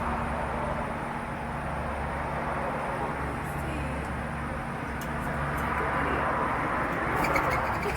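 Steady outdoor background rumble with a constant low hum, the kind of noise that comes from nearby traffic and machinery. A few faint ticks come near the end.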